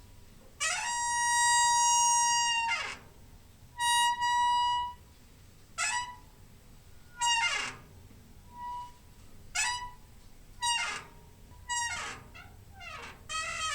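Door hinge squeaking as a door is swung back and forth: a series of high, reedy creaks. The first is drawn out for about two seconds, and the later ones are shorter and come quicker, bunching together near the end.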